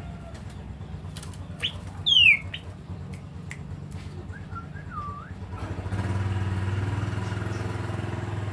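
A bird calling: a few short sharp notes and one loud falling whistle about two seconds in, then a short wavering note around five seconds in. Under it a steady low engine hum runs throughout and grows louder about six seconds in.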